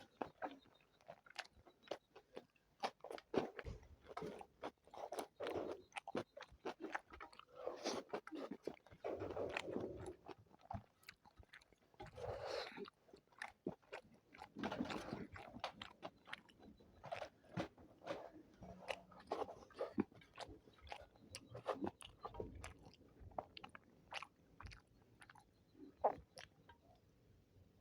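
Close-miked eating of spicy chicken biryani and chicken legs: irregular crunchy bites and chewing, thinning out a little in the last few seconds.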